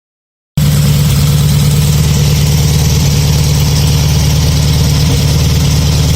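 1641cc air-cooled VW flat-four on dual 40 IDF carburettors idling steadily through a Trimil exhaust, coming in abruptly about half a second in.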